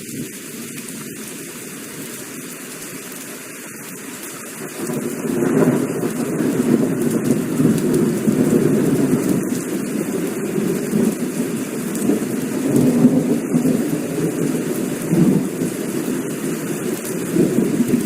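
Heavy rain falling steadily. About four and a half seconds in, a long rolling rumble of thunder builds and rumbles on unevenly.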